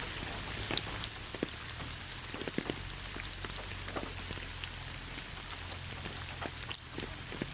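Steady rain falling, a continuous hiss with many separate drops ticking sharply over it and one louder drop near the end.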